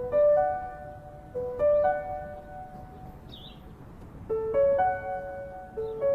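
Background score music: a piano repeating a short rising figure of a few notes about every one and a half seconds, with faint high chirps between the phrases.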